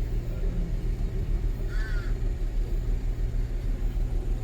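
Tour vehicle's engine running at idle with a steady low rumble; about two seconds in, a crow gives one short caw.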